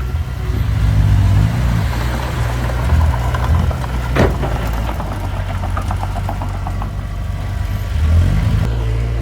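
Heavy earthmoving machine's diesel engine running steadily, with a single sharp metallic clank about four seconds in and a run of rattling after it.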